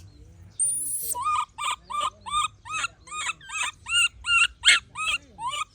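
A baby monkey crying over and over: a rapid string of short, high-pitched calls, about three a second, each sliding up and falling away.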